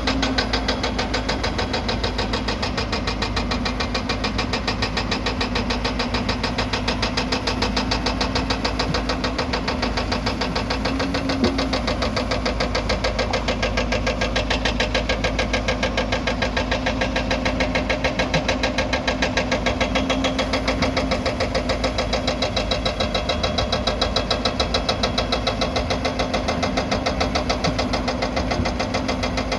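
Excavator's diesel engine running steadily at working speed, with a fast, even knock and a steady hum. There is one brief click about a third of the way in.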